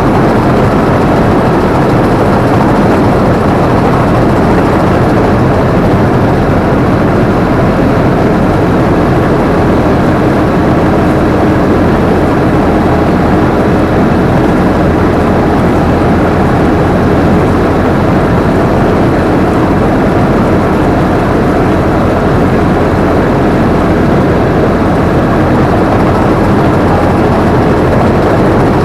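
Combine harvester running steadily, heard from the operator's position: a loud, constant drone of engine and machinery that does not change.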